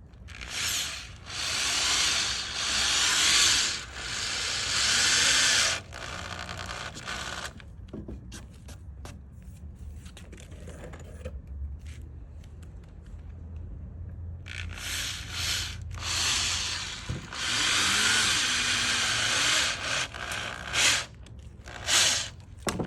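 Power drill working into wood in two long bursts of several seconds each, with a few short bursts near the end.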